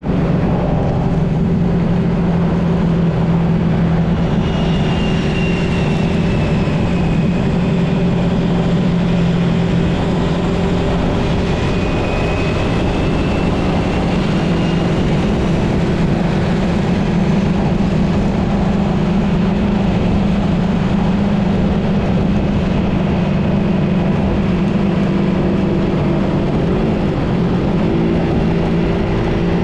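Suzuki GSX-S150's single-cylinder engine running under way, over steady road and wind noise. The engine note shifts slightly about eleven seconds in and again near the end.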